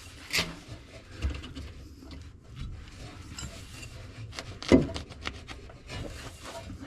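Scattered knocks, clinks and rubbing of metal parts and tools being handled while a shock absorber is swapped, with a louder knock about two-thirds of the way through.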